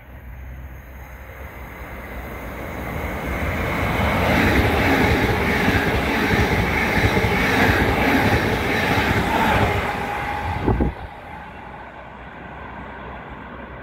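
A train passing at speed on the main line. It builds as it approaches, stays loud for about six seconds, then drops off abruptly about eleven seconds in, leaving a quieter steady rumble.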